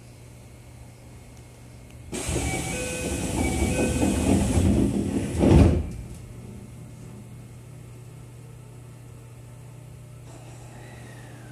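Interior of a Keio 9000-series electric commuter train at departure: a steady low hum, then a loud rush of noise with a few short ringing tones for about three and a half seconds that ends in a thump. Near the end a whine sets in and falls in pitch.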